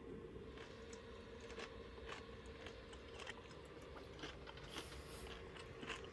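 A person chewing crisp bacon close to the microphone: faint irregular crunches and small clicks over a steady low hum.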